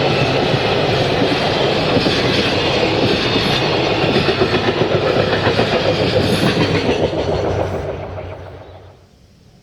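Freight train passing close by, its wagon wheels clattering over the rail joints in a loud, pulsing rhythm; the sound fades away quickly near the end as the last wagon goes by.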